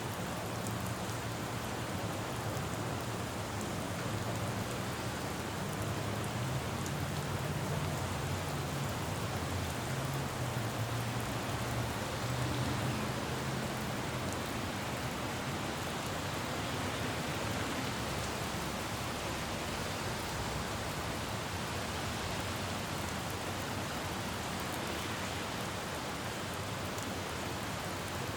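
Steady rain falling on a road, an even hiss of drops. Low traffic rumble from a vehicle swells through the first half and fades away around the middle.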